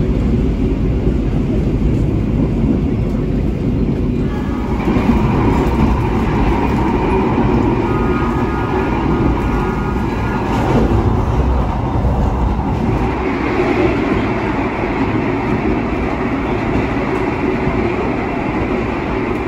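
Argo Semeru passenger train running along the track: a steady rumble of wheels and carriages. A higher hiss joins about four seconds in and grows stronger later, with a few faint whining tones briefly near the middle.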